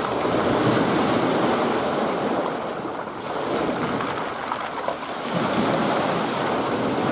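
Sea surf: waves breaking and washing in, one surge coming up sharply at the start and easing off after about three seconds, then another building a little past five seconds.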